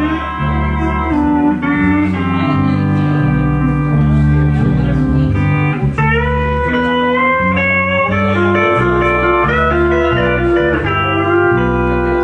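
Pedal steel guitar playing a slow instrumental, holding chords that glide in pitch as they change, over low bass notes.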